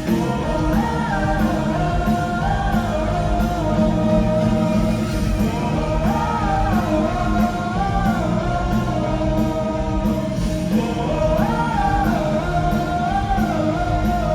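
Rock band playing live, with guitars, drums and a sung melody line that rises and falls over the full band.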